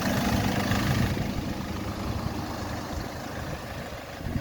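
Tow truck's engine running during an engine carbon clean. Its steady hum drops about a second in and keeps fading, with a short knock near the end.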